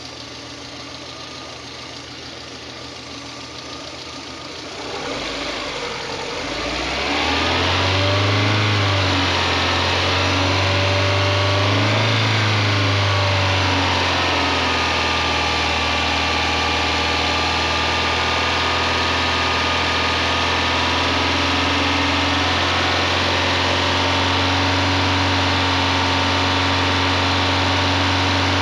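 VAZ 2110 1.5-litre 16-valve four-cylinder engine running on LPG through a Tomasetto AT07 reducer. It idles at first, then picks up about five seconds in, revving twice before settling at a steady raised speed for the rest. That is the raised-rpm hold used to set the reducer's mixture screw.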